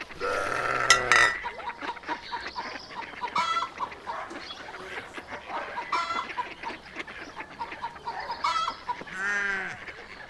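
Farmyard fowl calling: chickens clucking, with short honk-like calls every second or two and a louder burst of calls right at the start.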